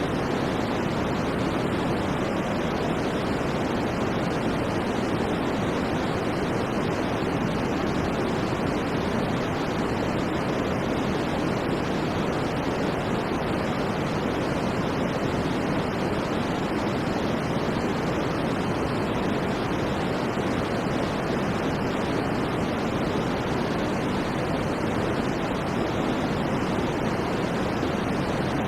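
Steady, unchanging white-noise track: a constant even hiss with most of its weight in the lower middle and little at the top, with no breaks or events.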